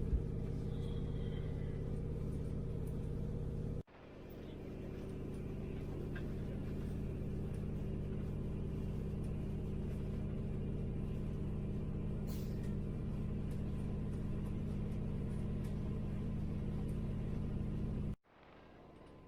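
A passenger train running, a steady low rumble with a constant hum. It cuts off abruptly about four seconds in and again near the end, and after the second cut it is much quieter.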